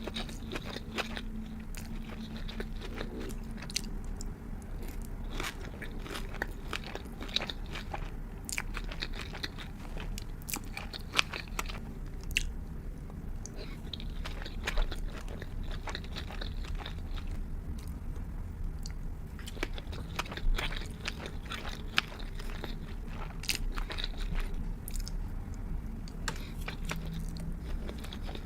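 Close-miked chewing and biting of sushi and sashimi, a mouth working through the food with many scattered sharp clicks of uneven strength.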